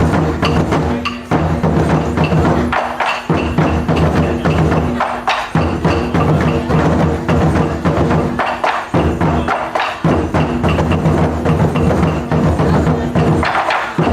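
Taiko drums played in a fast, driving rhythm, dense with sharp wooden clicks of sticks on the drum rims over a deep ringing drum tone that breaks off briefly four times.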